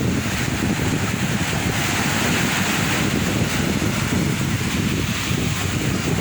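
Sea waves washing and breaking on the shore, with a swell of surf in the middle, and wind buffeting the microphone.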